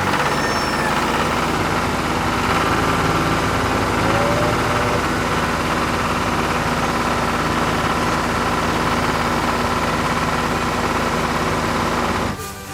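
A construction machine's engine running steadily, with a low hum under a loud, even noise; it stops abruptly near the end.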